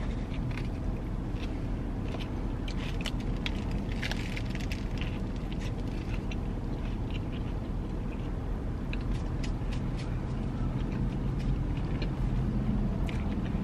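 Eating sounds: biting and chewing a burger and a pickled chili pepper, with many short clicks and crinkles from the paper burger wrapper, over a steady low rumble inside a car.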